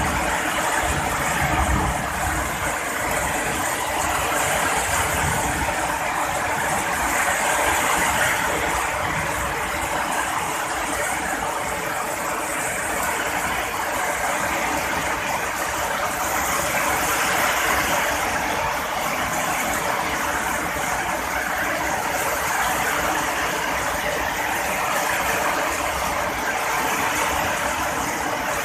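Heavy rain pouring steadily, a dense even hiss that swells and eases gently every few seconds.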